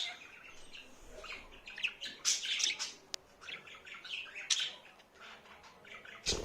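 Budgerigar chattering: a run of quick, high chirps and warbles, with a single sharp click about three seconds in and a louder, fuller call near the end.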